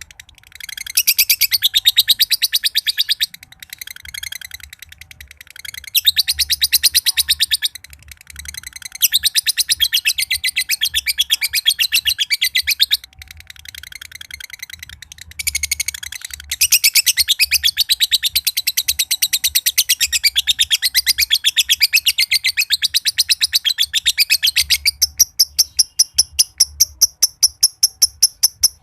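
Green (josan) lovebird chattering in long, rapid, high-pitched rattling bouts, its 'ngekek' song, broken by short pauses. Near the end it changes to sharp single high notes, evenly spaced at about three a second.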